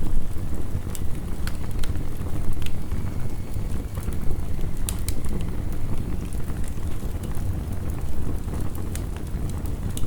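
Wood fire crackling, with scattered sharp pops, over a steady low rush of heavy rain.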